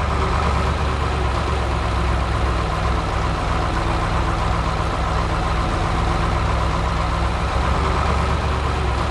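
Heavy vehicle engine idling steadily, an even low rumble that holds the same level throughout.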